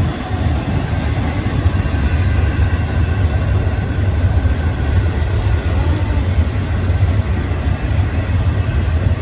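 Union Pacific freight train cars rolling past, a loud steady rumble of wheels on rail.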